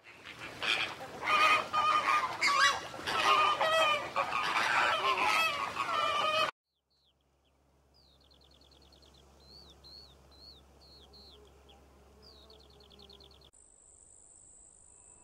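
A crowd of poultry calling loudly over one another for about six seconds, then a sudden cut to quiet, rapid chirps and trills of small birds, with a steady high whine starting near the end.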